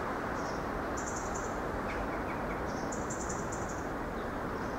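Steady rumble of an approaching Irish Rail 29000 class diesel multiple unit, with several short bursts of high bird chirping over it, the longest about three seconds in.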